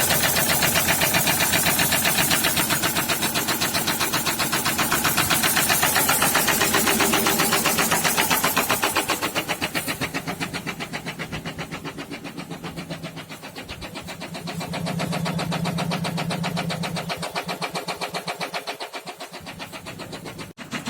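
SsangYong Kyron's D20DT four-cylinder diesel engine running with a steady rapid rhythmic knock, louder for the first nine seconds or so and quieter after. The owner puts the knock down to the fourth cylinder, damaged by oil starvation after the oil pump failed.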